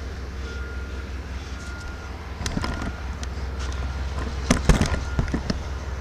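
A steady low rumble under a short high beep that repeats about once a second. From about halfway through there is a run of clicks and knocks, the loudest a sharp knock about three-quarters of the way in.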